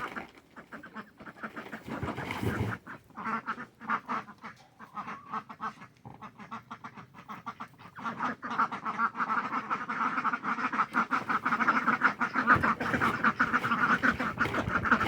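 A flock of domestic ducks quacking, scattered calls at first, building about halfway through into a dense, continuous chorus of quacks.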